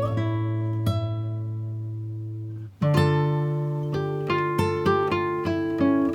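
Background music on a plucked acoustic guitar: a chord rings and fades, then after a brief break about three seconds in, a quicker run of picked notes follows.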